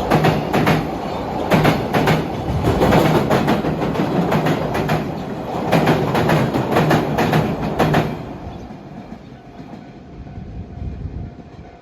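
A train passing close by, its wheels clacking in regular groups over the rail joints; the noise falls away sharply about eight seconds in as it moves off.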